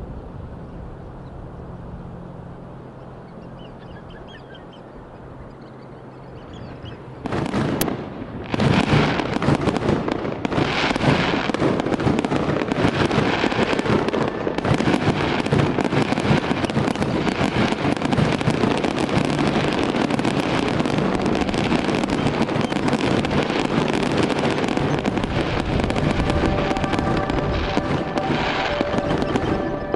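Loud rushing, crashing water cuts in suddenly about seven seconds in and runs on dense and steady. Before it is a quieter stretch with a low steady hum.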